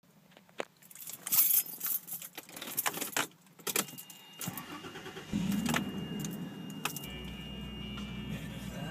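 Keys jangling and clicking, then a Toyota Land Cruiser's 4.5-litre inline-six with a Magnaflow exhaust cranks and starts about halfway through, flares briefly and settles into a steady idle, heard from inside the cabin. A steady high warning tone sounds alongside from about four seconds in.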